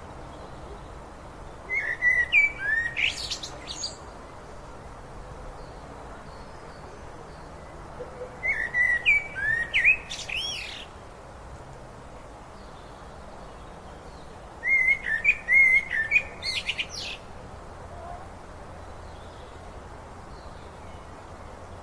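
A songbird singing three phrases of about two to three seconds each, several seconds apart. Each phrase has quick whistled notes and sweeps. They sit over a steady rush of flowing river water.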